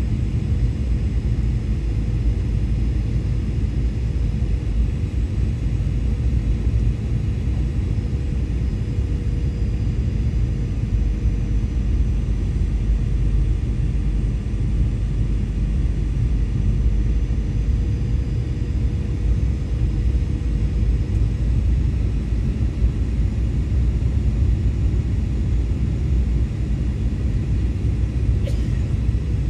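Steady low rumble of an Airbus A320 in flight, its engines and airflow heard inside the passenger cabin, with a faint steady hum over it. A small click comes about a second before the end.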